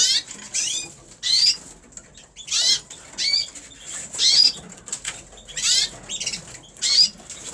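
Red canary cock singing: a string of short, high, rapidly trilled phrases in quick succession, with brief pauses between them.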